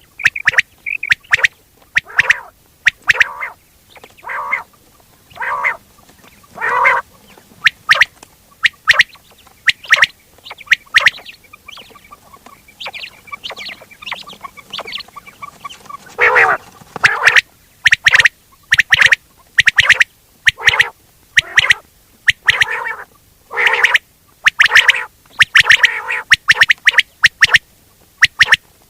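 Quail calls used as a hunting lure, repeated over and over in quick, sharp bursts with short gaps, quieter for a few seconds in the middle.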